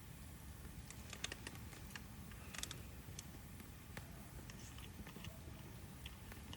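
Wood fire crackling: irregular sharp pops and snaps, a few clustered together, over a low steady rumble.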